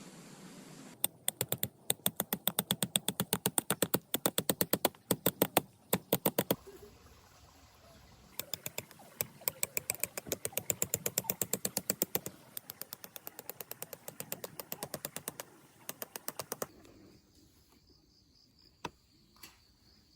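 Rapid runs of sharp taps or clicks, several a second, in bursts broken by short pauses, fading to two single clicks near the end.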